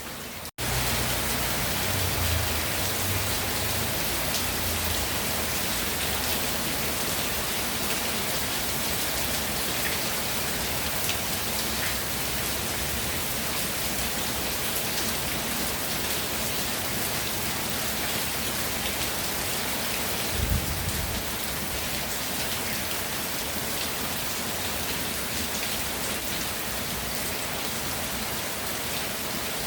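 Steady rainfall, an even dense patter of raindrops on surfaces. The sound cuts out for an instant about half a second in and comes back louder. There is a short low thump about twenty seconds in.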